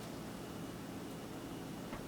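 Steady low hiss of room tone, with a faint click near the end.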